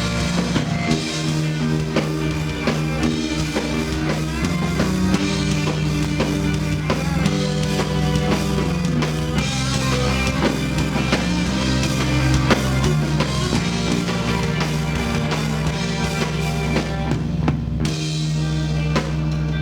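Live rock band playing an instrumental passage: drum kit with bass drum, electric guitar and bass guitar, without vocals.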